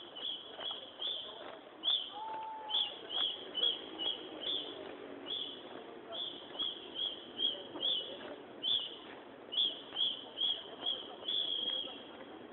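Small birds chirping: short high chirps repeated about twice a second at uneven spacing, over a faint murmur of voices.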